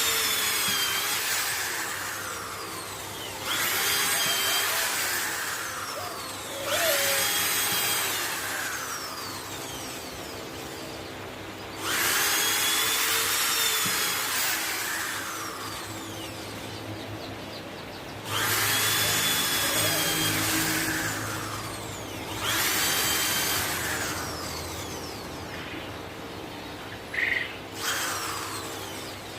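Electric power tool run in repeated bursts, about seven times: each starts suddenly at full speed and then fades as the motor winds down.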